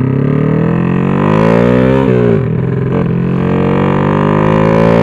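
Honda XRM fi's big-bored single-cylinder motorcycle engine accelerating hard through the gears. Its pitch climbs for about two seconds, drops at a gear change, then climbs again. It pulls cleanly with no bogging on the racing ECU's map 8.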